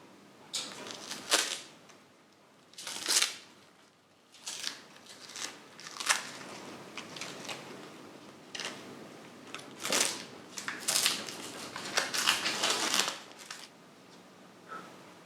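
Workshop handling noises: a series of irregular short noisy scrapes and rustles, a dozen or so, bunched together near the end.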